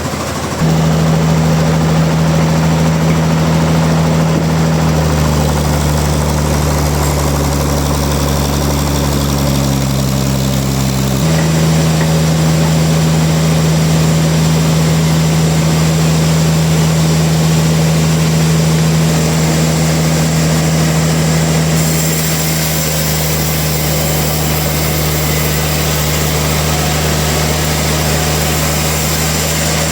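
Heavy machinery engine running steadily with a constant low hum. The pitch and tone change abruptly about 5, 11 and 22 seconds in.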